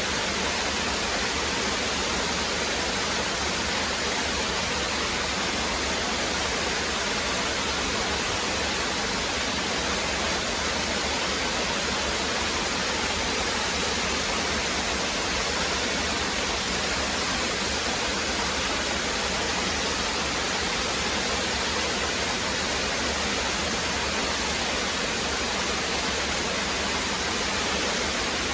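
Brook water rushing and splashing over rocks in a steady, unbroken wash of sound.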